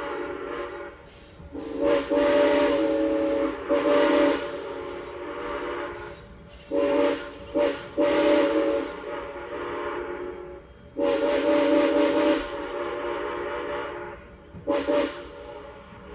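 Steam locomotive whistle blown in a series of about seven long and short blasts, each a steady chord of several tones. Each blast trails off in a fainter echo between the blasts.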